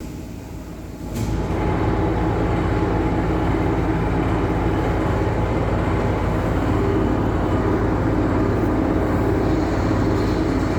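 ET2M electric multiple unit running, a steady rumble and clatter of the ride heard from on board. About a second in there is a click, after which the running noise is markedly louder.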